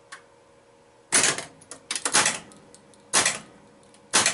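Bally pinball machine solenoids firing in the solenoid self-test: sharp mechanical clacks about once a second, a few coming in quick doubles.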